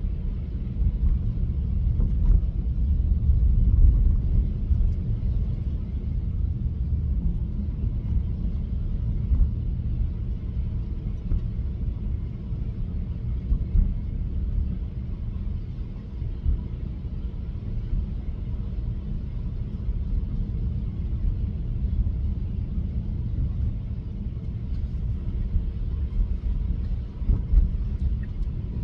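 Steady low rumble of tyre and road noise inside the cabin of a Tesla electric car driving on snowy roads.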